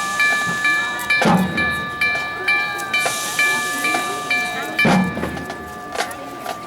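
Train sound effect played over a PA: a bell-like tone ringing about twice a second with stretches of hiss and two heavy thumps. The ringing stops about five seconds in.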